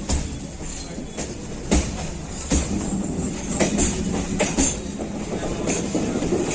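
Howrah suburban local train running on the line: a steady rumble of wheels on rail, broken by irregular sharp clacks as the wheels cross rail joints.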